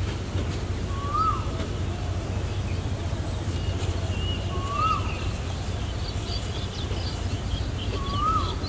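A bird repeating a short call that rises and then falls, three times about three and a half seconds apart, with fainter high chirps from other birds, over a steady low rumble.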